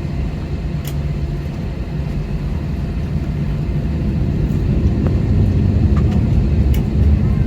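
Steady low rumble of an airliner's cabin, from the engines and air system, growing slightly louder through the second half, with a few faint clicks.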